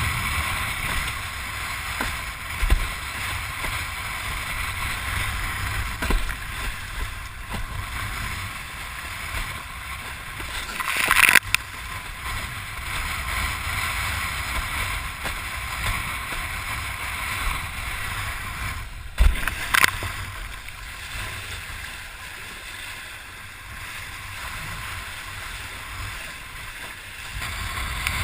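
Windsurf board sailing over the sea: a steady rush of water and wind. Two sharp splashing hits about 11 and 19 seconds in.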